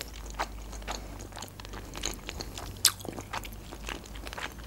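A person chewing mussels, with short, irregular wet mouth clicks; the sharpest click comes about three seconds in.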